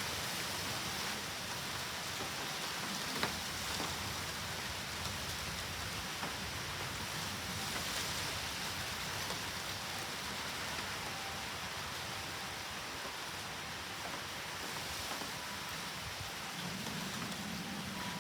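Steady typhoon rain falling, an even hiss with one sharp click about three seconds in.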